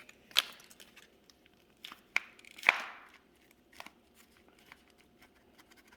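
A few sharp clicks and knocks of a plastic toy knife and toy kitchen pieces, a play knife slicing sand-like toy butter against hard plastic; the loudest knock comes a little under three seconds in.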